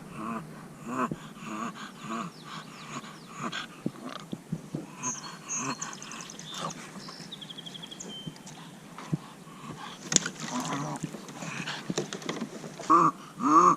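A bulldog whining in a rhythmic series of short pitched calls, about two a second, thinning out midway and coming back stronger near the end.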